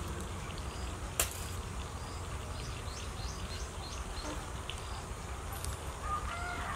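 A man chewing and biting into crispy fried chicken, with one sharp crunch about a second in and small faint clicks of chewing, over a steady low rumble.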